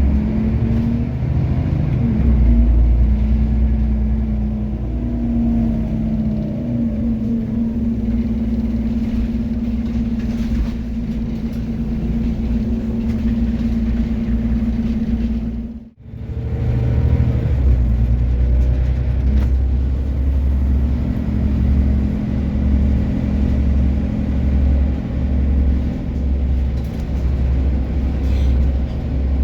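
Scania OmniCity city bus running on the road, with a low engine rumble and a steady hum whose pitch shifts in the first few seconds. The sound cuts out abruptly for a moment about halfway through, then the same rumble resumes.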